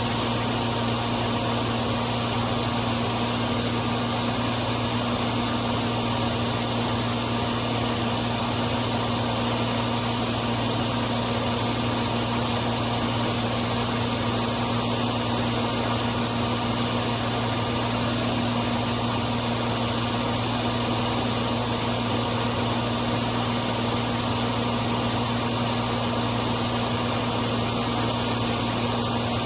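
John Deere 4230 tractor's six-cylinder diesel running steadily under load, driving a New Holland 355 hammermill feed mixer that is grinding corn: a constant low hum over a steady rushing noise, with no change in speed.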